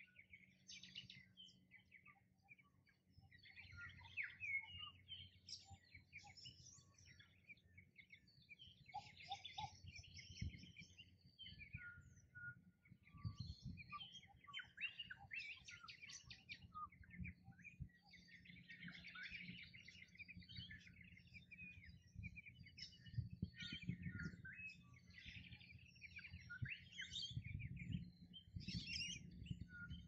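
Small bush birds chirping and twittering: clusters of short, high calls and trills, several overlapping, coming and going in bursts, fairly faint.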